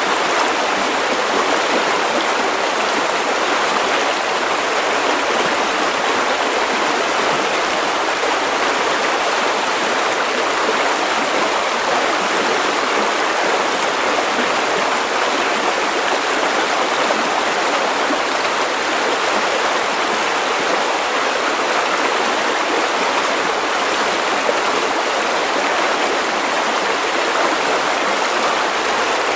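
River water running steadily over stones.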